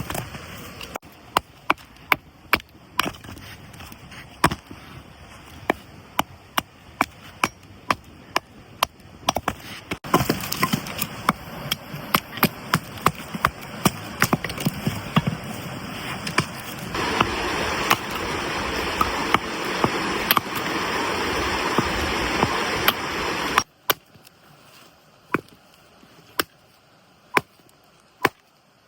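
Repeated sharp knocks, about one or two a second, with a hissing rush that joins about ten seconds in and grows louder a few seconds later. Near the end the rush cuts off suddenly, and only a few fainter knocks follow.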